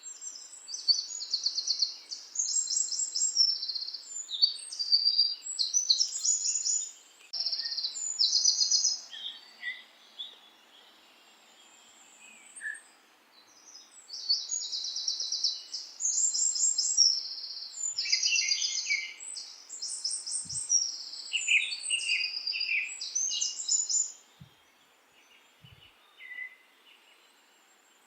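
Songbirds singing: rapid, high chirping trills in repeated bursts, with a lull about halfway through and a quieter stretch near the end.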